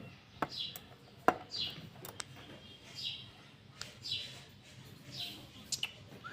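Pet parrot giving soft, short falling chirps, about one a second, with a few sharp clicks among them.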